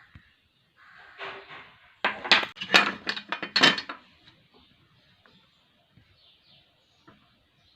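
Small hard objects clinking and rattling together for about two seconds, starting about two seconds in, followed by a few faint clicks.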